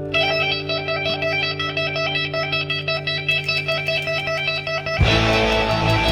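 Rock backing track: an electric guitar plays a fast repeating lead figure over a held chord. About five seconds in, the full band with drums comes in louder.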